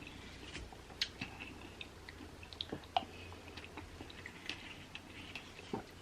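Faint close-miked chewing of juicy fruit in coconut water (berries and pomegranate seeds), with scattered small wet clicks and squishes.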